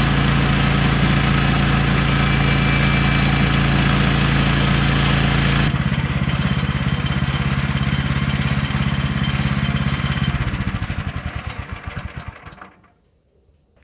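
Woodlander HM126 band sawmill's engine running steadily. About six seconds in the harsher noise drops away abruptly and the engine runs on more quietly, then slows over a couple of seconds and stops about thirteen seconds in.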